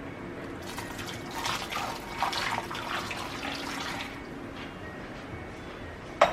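Water splashing and running for a few seconds, then a single sharp click near the end.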